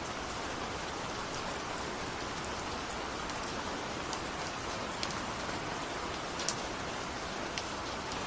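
Steady rain, an even hiss with scattered sharp ticks of single drops striking a surface.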